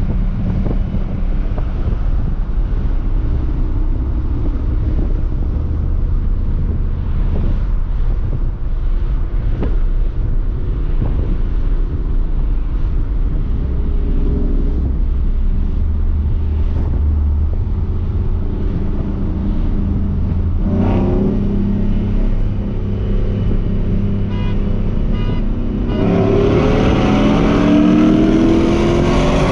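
Ford F-150's 5.0 V8 engine droning steadily at cruise, with a short rise in revs about two-thirds of the way through and a hard acceleration with climbing revs near the end.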